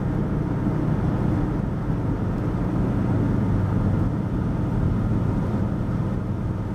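Car engine running steadily with road noise, heard from inside the cabin while driving.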